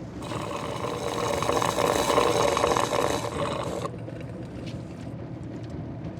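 Loud, wet slurping eating noise from a person's mouth for about four seconds, then quieter smacking clicks.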